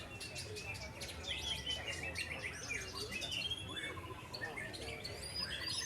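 White-rumped shamas (murai batu) singing: several birds at once with fast, overlapping whistles, trills and sharp clicking notes, over a steady low rumble.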